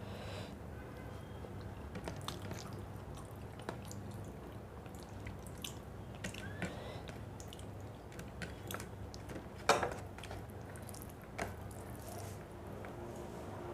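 A person eating rice and fish curry close to the microphone: soft wet chewing and mouth clicks, with one sharper click a little under ten seconds in.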